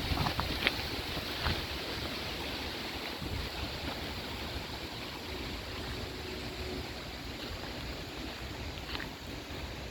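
Steady rain falling, an even hiss, with a few sharp taps in the first second and a half.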